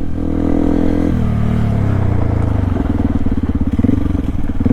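Yamaha WR155R's single-cylinder four-stroke engine running. Its revs drop about a second in, and it settles to a lower, even running note.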